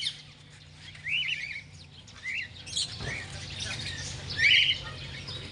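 Small caged parrots chirping and squawking: a handful of short, shrill calls, the loudest about four and a half seconds in, over a low steady hum.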